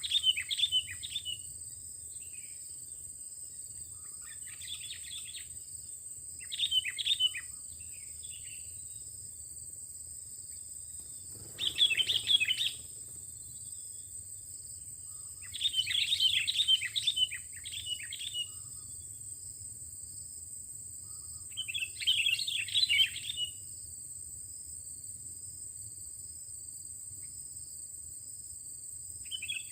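Sooty-headed bulbul (kutilang) singing in short bursts of bubbly chirping phrases, about six phrases with pauses of a few seconds between them. A steady high-pitched tone runs underneath.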